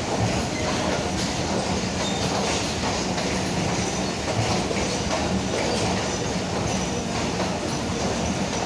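Pak Business Express passenger train running, a steady rumble of its wheels on the rails.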